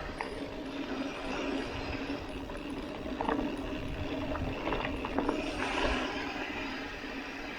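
Mountain bike riding a dusty dirt road: a steady rush of tyre and riding noise, with a few sharp rattles and knocks from about three to six seconds in.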